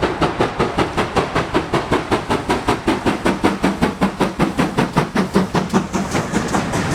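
Steam locomotive passing under power, its exhaust chuffing in a fast, even rhythm of about five beats a second that fades near the end.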